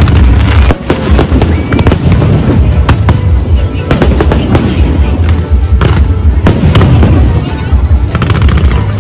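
Aerial fireworks bursting one after another, loud, with clusters of rapid crackling and a constant deep rumble, over music.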